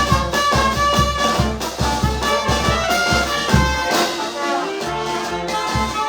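Brass band music with trumpets and trombones over a steady bass-drum beat; the beat drops out about four seconds in while the horns carry on.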